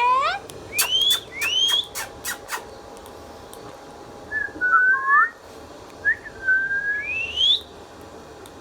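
Indian ringneck parakeet whistling: a few quick rising whistles with sharp clicks in the first couple of seconds, then short warbling chirp-whistles around the middle and a long rising whistle near the end.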